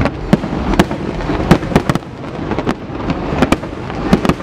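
Fireworks display: a rapid, irregular string of sharp bangs, several a second, over a continuous low rumble of more distant bursts.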